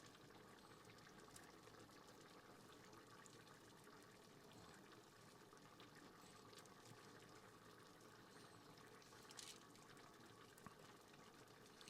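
Near silence: a faint steady hiss, with a few light clicks near the end.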